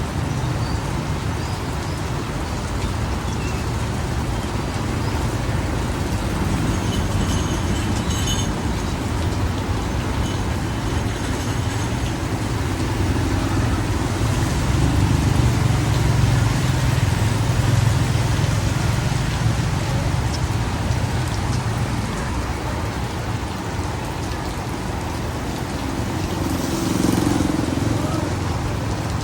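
Street traffic and steady rain, with a vehicle's engine rumble swelling in the middle.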